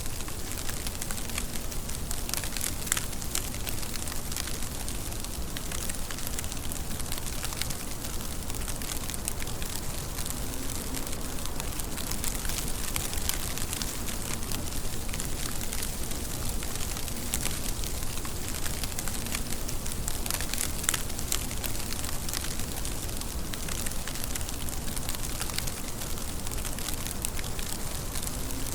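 Steady rain falling, with many sharp drop ticks in the hiss and a few louder single drop hits.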